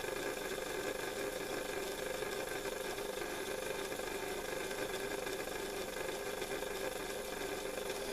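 Small electric motor of a model locomotive running steadily with a constant whir, driving its wheels round under power so that the liquid traction-tyre compound spreads evenly on them.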